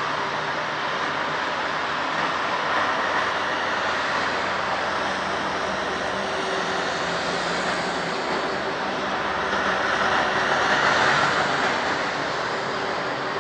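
Steady roar of surf on the shore mixed with passing road traffic, swelling louder about ten seconds in.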